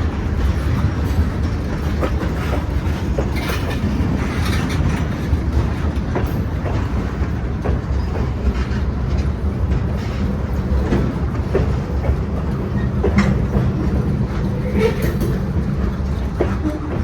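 Freight train cars rolling past, a steady rumble of steel wheels on rail with scattered clicks and clanks.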